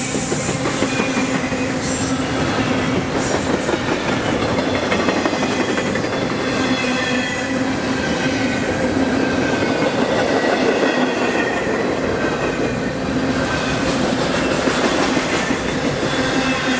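A railroad train passing at speed: a continuous rumble of wheels on the rails with a steady low tone and faint high wheel squeal above it.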